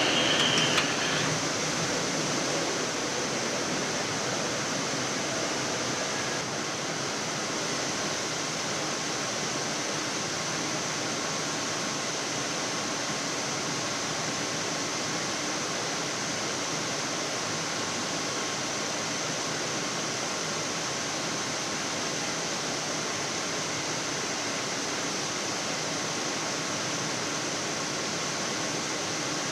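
Steady rushing hiss of airflow and air conditioning in a Boeing 787 cockpit on approach, with a faint high whine running through it.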